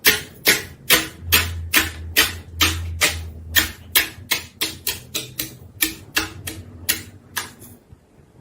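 Slime being played with, making a run of about twenty sharp, crisp clicks at roughly two to three a second, which stop shortly before the end.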